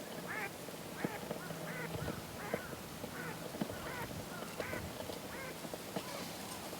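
Wood campfire crackling with sharp pops, while a bird calls in a quick series of short rising-and-falling notes, about two a second.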